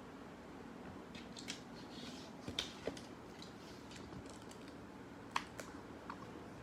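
Faint steady low hum with scattered light clicks and taps, the sharpest a few near the middle and one about five seconds in.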